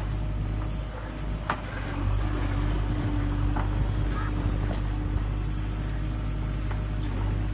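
JCB 3DX backhoe loader's diesel engine running steadily, with a steady whine coming in about two seconds in and a few short sharp knocks.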